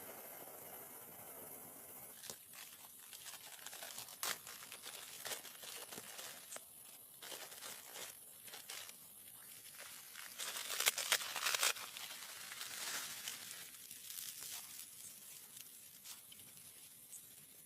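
Irregular crinkling and tearing handling noises, with a louder burst of crackling about eleven seconds in.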